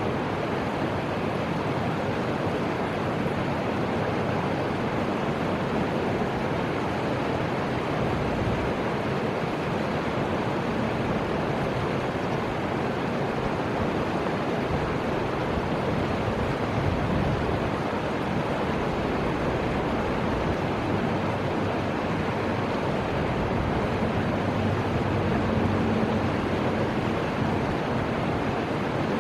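Steady rushing of river water, an even unbroken noise with no train passing.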